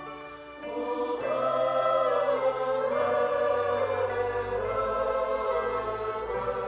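Choir singing long held notes over music, swelling back in after a brief dip about half a second in.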